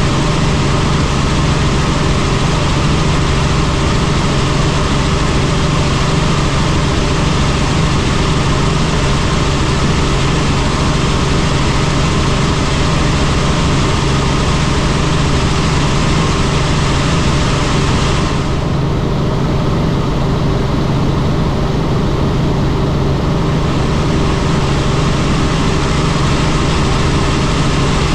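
Helicopter in flight: a loud, steady drone of engine and rotor with a constant low hum. The higher hiss drops away for a few seconds about two-thirds of the way through, then returns.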